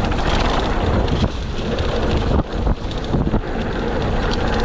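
Wind rushing over the microphone with the rattle and knocking of a mountain bike riding fast downhill over a rough trail.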